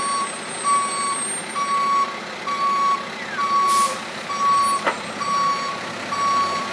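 Tow truck's reverse alarm beeping steadily, a single-pitched beep about once a second as the truck backs up. A brief hiss comes about four seconds in, with a sharp knock just after.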